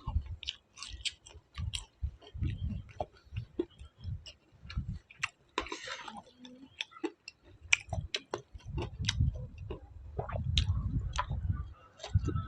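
Close-up chewing and crunching of fried chicken, with irregular sharp crunches and wet mouth clicks throughout.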